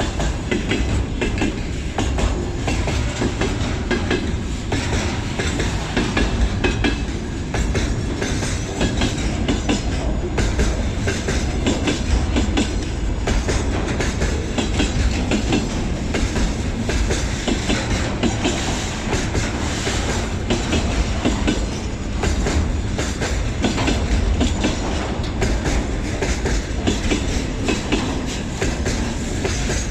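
Freight train wagons rolling past at speed, their wheels clacking steadily over the rail joints in a continuous loud rumble.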